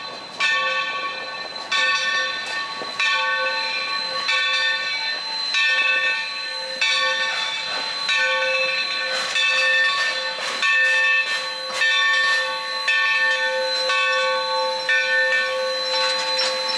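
Steam locomotive's bell ringing steadily, one strike about every second and a quarter, each ring fading out before the next, with a steady steam hiss underneath.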